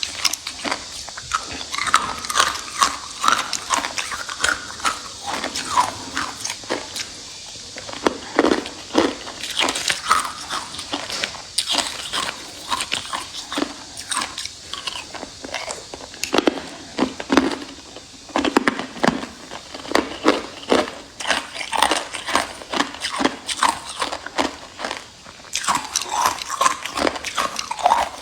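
A person biting and chewing hard ice close to the microphone: a rapid run of sharp cracks and crunches with a few brief pauses.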